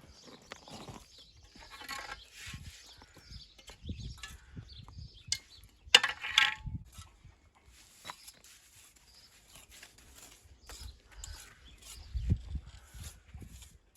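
Dry stones being handled on a wall build: irregular knocks, clacks and scrapes of stone on stone, with a sharp loud clack about six seconds in followed by a short grating scrape, and another heavy knock near the end.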